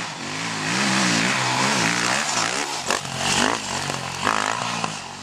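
Off-road motorcycle engine revving up and down repeatedly, getting louder about half a second in, with a sharp crack about three seconds in.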